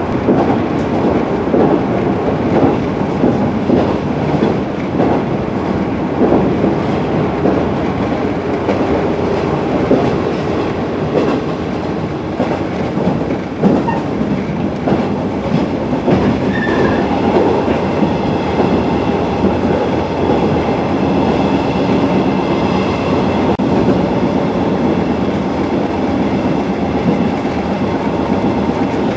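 Running noise inside a JNR 115 series electric train at speed: a steady rumble with the wheels clicking over rail joints, and a faint steady whine joining in about halfway through.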